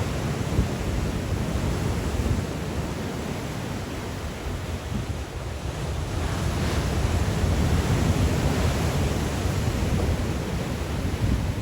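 Sea waves breaking and washing on the shore in strong wind, with low wind rumble on the microphone. A wave surges louder about six seconds in.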